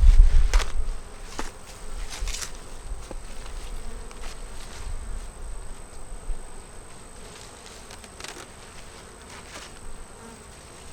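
Honeybees buzzing at the open top of a wintering hive, with a few rustles and clicks from handling the hive and feed. A low rumble in the first second.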